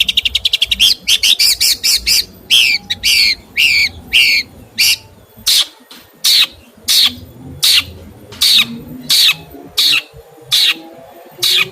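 A songbird calling: a fast run of notes over the first second or two, then one harsh call about every 0.7 s.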